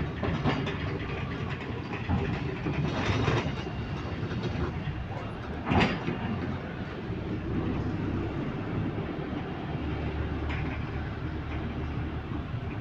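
Bus interior: steady engine and running noise with small knocks and rattles, and one sharp knock about six seconds in.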